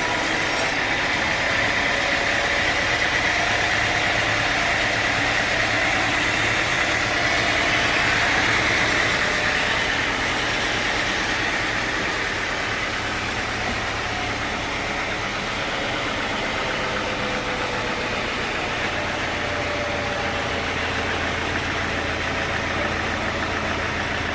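Sawmill machinery running steadily: an engine-driven drone with a hiss, swelling a little about eight seconds in and then easing.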